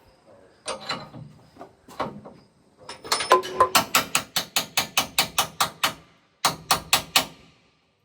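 Metal being struck with a hammer: a few single knocks, then a fast run of blows at about four to five a second for some three seconds, and four more blows near the end, each ringing briefly. It is work on a combine's concaves, which are being changed.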